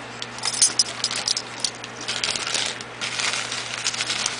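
Light clicking and rattling in irregular clusters as a teaspoon and nectar mix are handled, with the first teaspoonful about to be measured into a cup of water.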